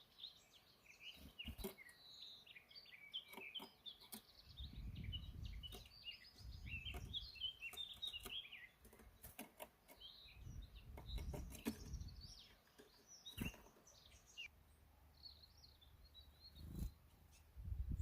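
Faint small birds chirping and twittering in quick, jumbled runs, thinning out in the last few seconds. Patches of low rumbling noise and a few sharp clicks come and go underneath.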